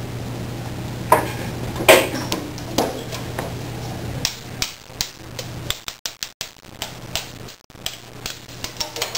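A run of irregular sharp taps and knocks, coming closer together in the second half, over a steady hum that drops out about four seconds in.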